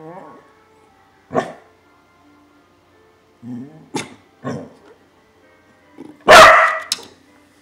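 Pet dog barking in short separate barks: one, then a quick run of three, then the loudest near the end, with a rising whine at the very start.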